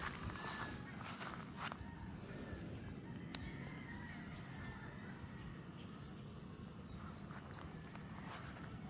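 Insects singing in a steady high-pitched drone, with a few faint clicks.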